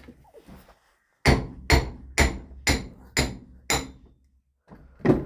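Hammer blows driving the seized shaft out of a Massey Ferguson 390 link arm adjuster: six sharp, evenly spaced strikes about two a second, then a short pause and one more strike near the end.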